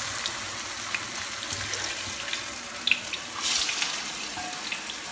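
Vegetable patties shallow-frying in hot oil: a steady sizzling hiss with scattered small crackles and pops.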